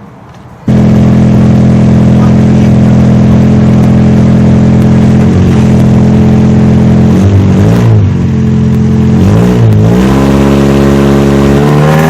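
Car engine running loud and close, blipped twice and then revving up near the end as the vehicle pulls on a tow strap to yank the crushed rear end of a race car straight.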